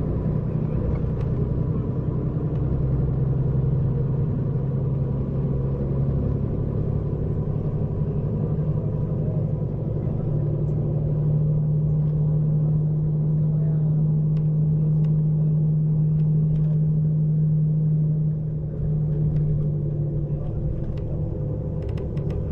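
Scania diesel engine of a double-decker coach running with a steady low hum, heard from inside the bus. The hum rises in pitch about a third of the way through and eases back slightly near the end.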